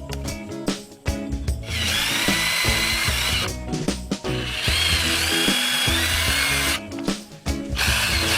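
Background music, with a small power tool whirring in two spells of about two seconds each and once more briefly near the end, a high whine riding over its noise.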